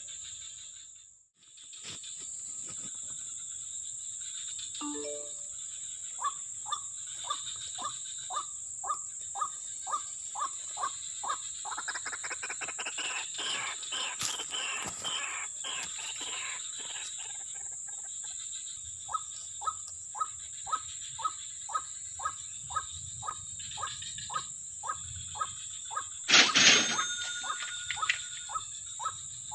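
Wild outdoor ambience: a steady high-pitched insect drone, with a short animal call repeated about twice a second that pauses for a while in the middle. A louder sudden sound comes near the end.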